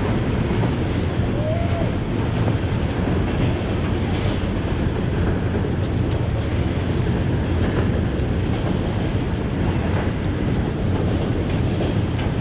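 Coal train of hopper cars rolling across a steel swing bridge: a steady, unbroken rumble of wheels on rails.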